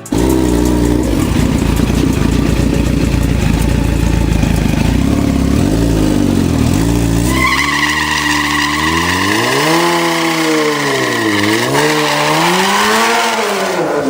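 Motorcycle engine running steadily, then revved up and down in the second half: the pitch climbs, dips, climbs again and drops off near the end.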